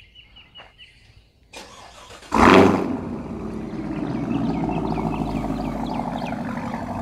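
2019 Chevrolet Camaro SS's 6.2-litre V8, with a muffler delete, starting: a short crank about a second and a half in, a loud flare as it catches, then settling into a steady idle.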